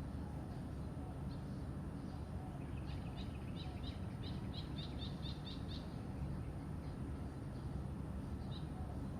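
Songbird chirping: scattered single high notes and, a few seconds in, a quick run of about five chirps a second lasting roughly three seconds, over a steady low rumble.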